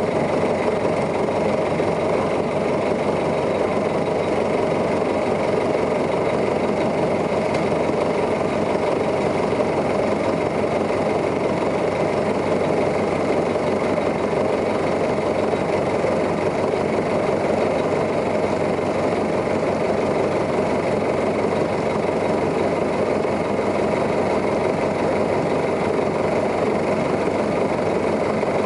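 New Flyer articulated city bus engine running steadily at idle, with no change in revs.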